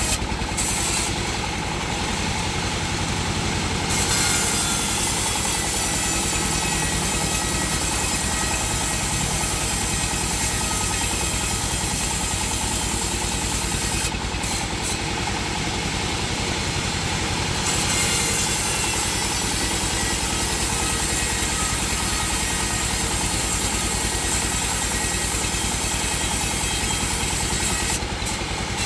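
A sawmill's engine running steadily while its saw works the wood, with a high hiss that drops away twice for a few seconds.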